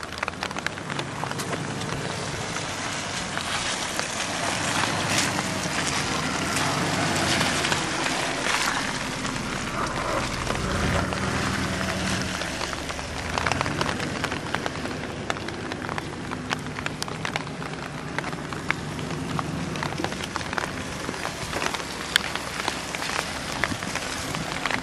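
A 1993 Jeep Grand Cherokee's 5.2-litre V8 runs as it is driven slowly over loose dirt, its pitch rising and falling with the throttle. A steady crackling hiss with many small clicks lies over the engine throughout.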